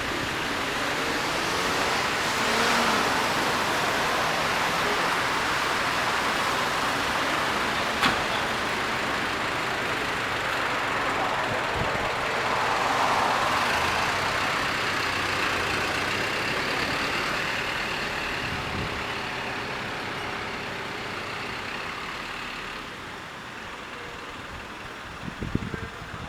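Heavy road vehicles running slowly: a steady engine and tyre noise that swells twice, with a sharp click about eight seconds in, then dies down near the end.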